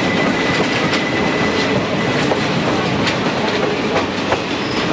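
A passenger train behind a Shay geared steam locomotive running along the track, heard from an open car: a steady rumble with scattered clicks from the wheels on the rails. A thin high wheel squeal on the curve stops about two seconds in.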